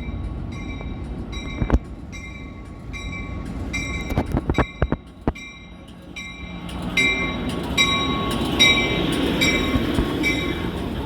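A train at a station: a bell ringing steadily, about twice a second, with a few sharp knocks near the middle. About six seconds in, the rumble of the train rises and carries on under the bell.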